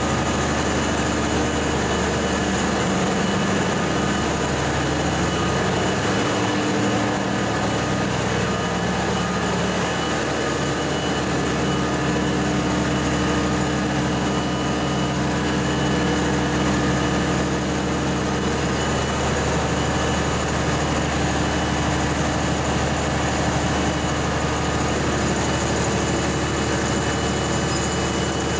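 A steady, unbroken mechanical drone with several constant tones over a deep rumble, like a vehicle or machine running at a constant speed.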